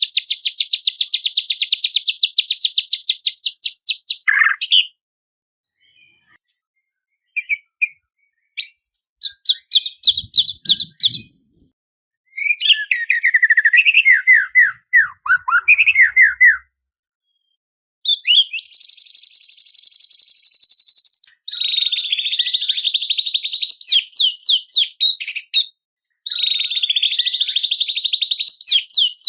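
White-rumped shama (murai batu) singing a varied song in bouts. It opens with a fast rapid-fire run of repeated notes, then after a short pause gives scattered notes and sweeping falling phrases. About eighteen seconds in comes a held whistled phrase, followed by more fast rattling trills.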